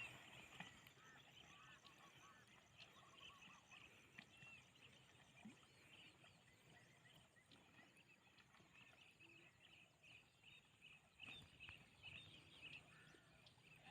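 Very faint ambience with many short, high chirping animal calls repeating throughout.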